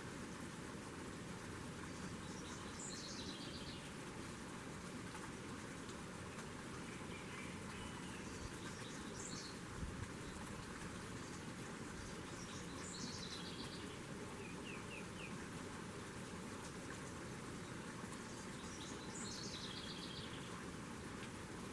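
A songbird singing short phrases that drop in pitch as quick runs of notes, four times, over a steady background hiss.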